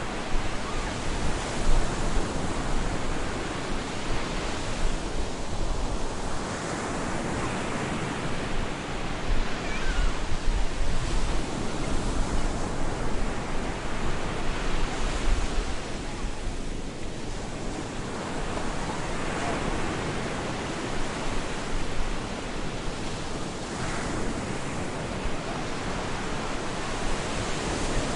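Stormy sea surf: waves breaking and washing on a beach in a continuous roar that swells and eases every few seconds, with wind.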